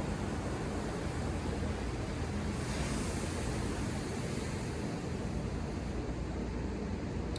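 Ocean surf washing steadily under a low rumble, with a wave breaking about two and a half seconds in, its hiss fading over the next few seconds.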